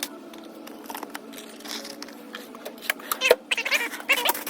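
Small metal tools and parts clinking and knocking as they are handled and sorted in a toolbox drawer. The clatter starts about three seconds in as a quick run of sharp clicks, with a few short squeaks among them.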